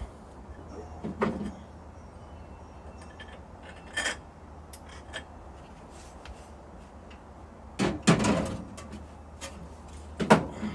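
A few separate metallic clunks and knocks from tools and parts being handled while working on a seized engine, the loudest cluster about eight seconds in and another near the end, over a steady low hum.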